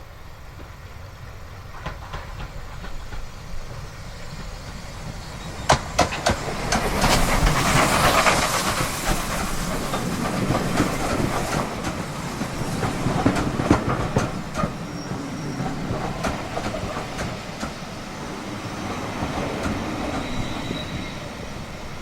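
East Lancashire Railway heritage train pulling in, growing louder, its wheels clacking over the rail joints in sharp clicks about six seconds in and again near the middle, with the carriages rumbling past loudest a few seconds after the first clicks.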